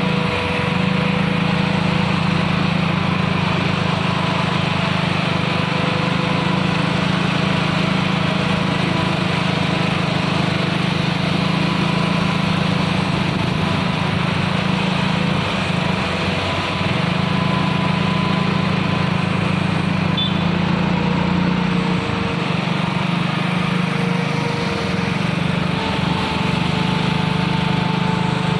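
Isuzu truck's diesel engine running hard under load on an uphill climb: a steady, loud drone with a held higher tone above it.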